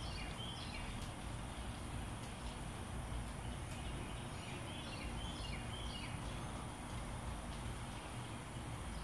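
A bird chirping outdoors: quick runs of short, high, falling notes, once at the start and again about halfway through, over a steady low rumble of background noise.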